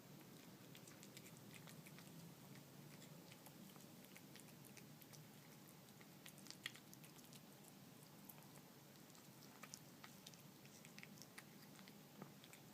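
A cat chewing wet canned cat food with small dried fish in it: faint, irregular chewing clicks over a steady low hum.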